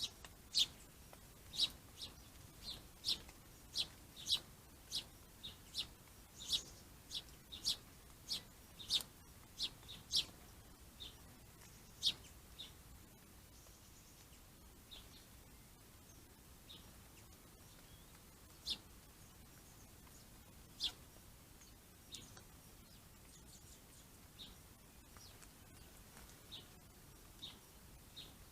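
Birds chirping: short, sharp chirps, about two a second for the first twelve seconds or so, then scattered and fainter.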